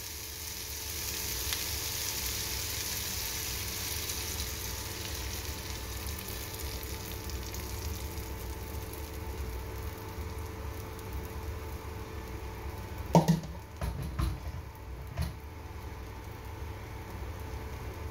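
Beaten egg sizzling in a hot pan of sautéed bitter gourd, onion and tomato. The sizzle is brightest for the first few seconds, then settles to a steady frying hiss. A few knocks come about thirteen to fifteen seconds in, the loudest near thirteen seconds.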